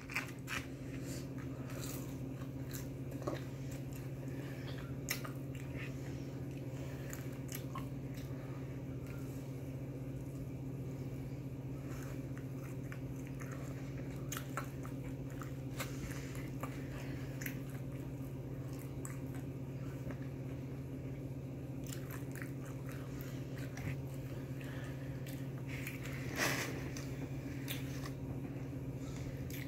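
A person chewing and biting fried chicken close to the microphone, with scattered short mouth clicks and smacks, the loudest about 26 seconds in, over a steady low hum.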